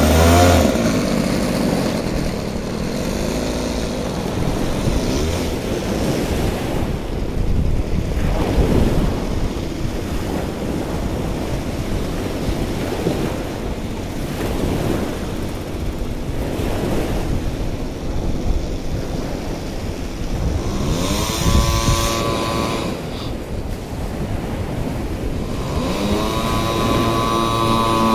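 Wind rushing over the microphone, with the motor of a radio-controlled Pilatus PC-6 Porter scale model running underneath. About three-quarters of the way through the motor's pitch rises sharply, and near the end it rises again and holds high as the model powers up for its takeoff run.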